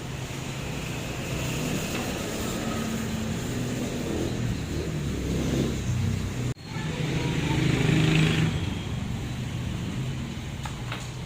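A motor running steadily, with a rush of hissing air about eight seconds in. The sound breaks off for an instant shortly before the hiss.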